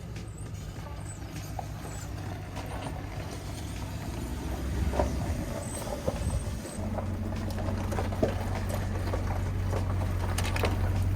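Ford truck engine idling steadily just after a remote start, with a few light knocks. The idle becomes steadier and a little louder about two-thirds of the way through.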